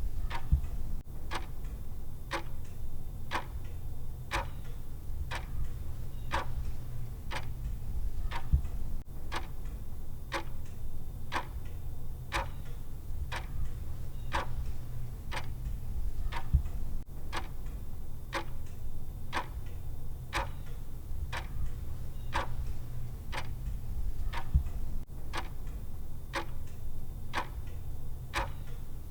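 Steady clock-style ticking from a countdown timer's tick sound track, about three even ticks every two seconds, over a low steady hum.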